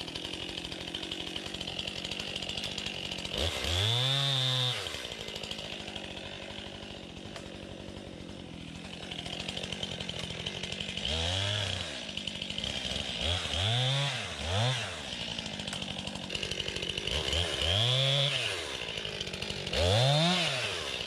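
STIHL MS261 two-stroke chainsaw idling, revved up and let fall back about six times in short blips. It is being warmed up and checked that it runs well before use.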